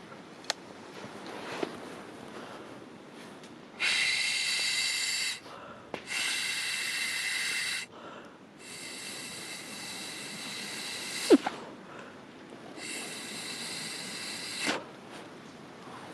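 Wood campfire with air blown into it in four hissing bursts of one to three seconds each, with short pauses between them and a few sharp crackles from the burning wood.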